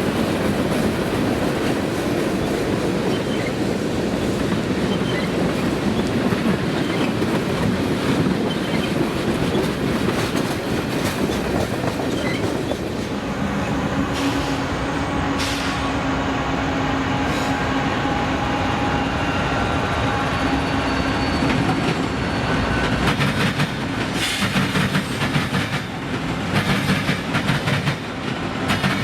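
Freight train cars rolling past, wheels clacking over the rail joints. About halfway through, a steady squealing tone from the wheels joins in, and the clacking grows sharper and denser near the end.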